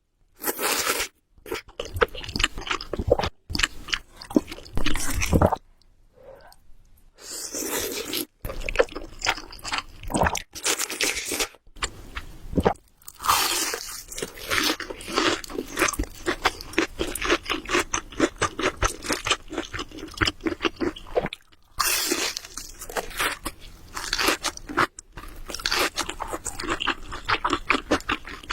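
Close-miked eating: chewing with dense, rapid crackling clicks, in bursts broken by a few short pauses.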